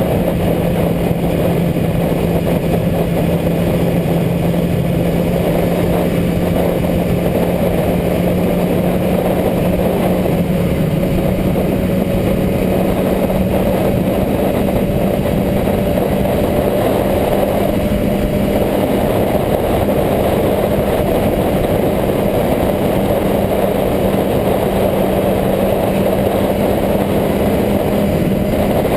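Motorcycle engine running at a steady speed, its pitch creeping slowly upward over a dense, even rush of noise.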